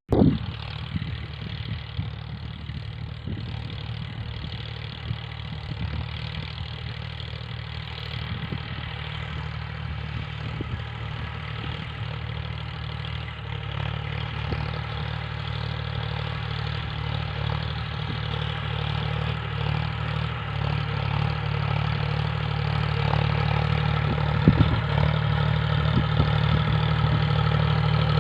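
Tractor diesel engine running steadily under load, growing gradually louder through the stretch, with a single brief knock near the end.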